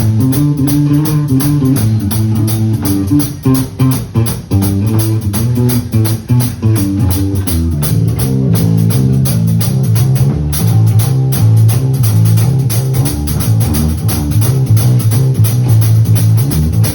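Live band playing an instrumental rock passage on guitar, bass guitar and drum kit, with a steady cymbal beat and a moving bass line.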